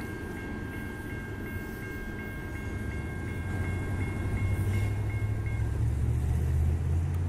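Intermodal freight cars carrying highway trailers on flatcars roll past on the rails, with a steady rumble of wheels and two high ringing tones, the upper one pulsing about three times a second. The tones stop about five and a half seconds in, while a low rumble grows louder toward the end.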